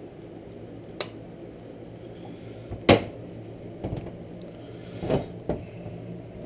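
A few separate sharp clicks and knocks from handling the parts of a three-wheeler's recoil pull starter, the loudest about three seconds in, over a steady low hum.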